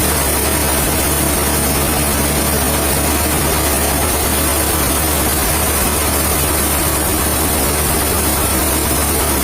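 Steady, unbroken running of heavy sawmill machinery: an engine-driven low hum under an even hiss.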